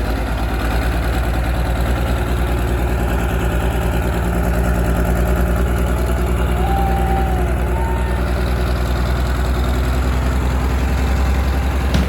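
Monster truck's turbo diesel engine running steadily at low speed with an even, deep firing pulse, growing slightly louder.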